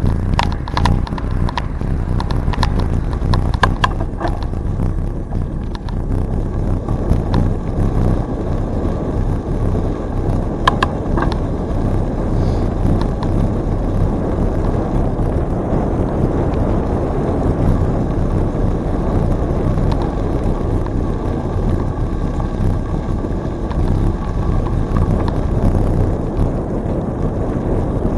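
A moving bicycle's riding noise: steady wind rush on the microphone and tyre rumble, with scattered clicks and rattles from the bike in the first five seconds and again about eleven seconds in.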